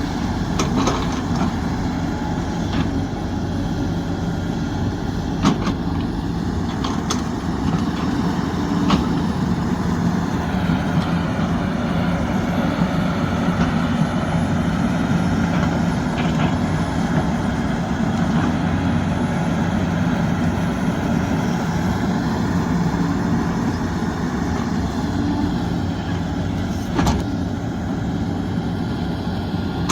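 Sumitomo SH370LHD-6 hydraulic excavator's diesel engine running steadily under work, with several sharp metallic clanks scattered through.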